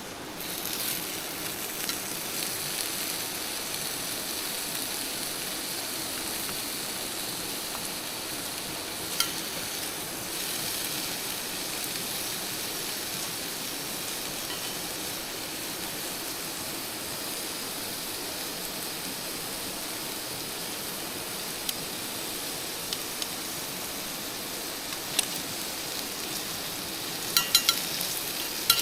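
Food sizzling steadily over heat, with a few sharp clicks and a quick cluster of them near the end.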